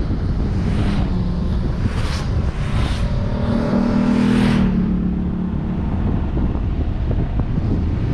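Wind buffeting a vehicle-mounted camera at driving speed, with a steady low rumble. Another vehicle's engine rises and falls in pitch as it passes, loudest about four seconds in.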